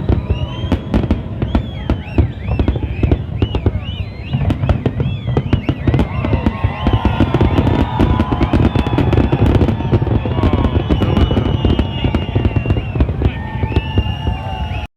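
Fireworks display: rapid, dense bangs and crackling from many shells bursting, with high whistling tones that rise and fall over them. The sound cuts off suddenly near the end.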